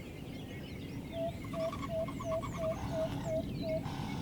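Jungle ambience of many birds chirping over a steady hiss. From about a second in, one call repeats eight short, even notes, about three a second.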